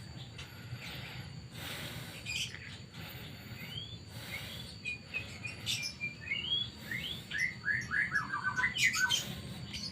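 Birds chirping outdoors: short rising chirps, then a quick run of notes stepping down in pitch near the end. A few short bursts of noise come in the first few seconds.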